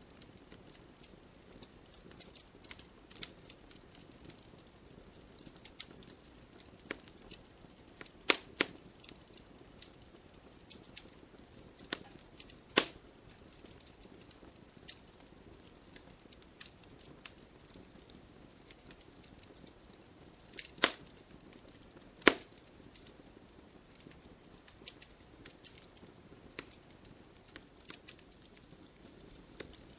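Wood fire crackling in a fireplace: a steady patter of small clicks over a low hiss, with a few sharper, louder pops, two of them a little after 20 seconds in.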